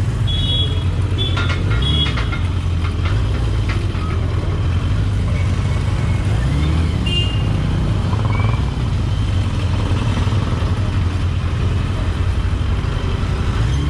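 Motorcycle engine running steadily with a low, even rumble. A few short high-pitched tones sound over it in the first two seconds and again around seven seconds in.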